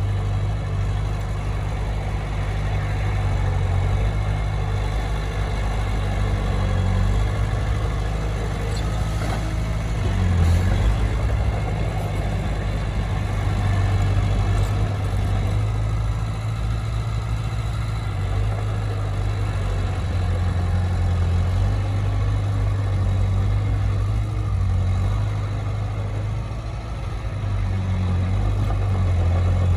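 Heavy diesel engine of earthmoving machinery running steadily, its low note shifting a little as the load changes.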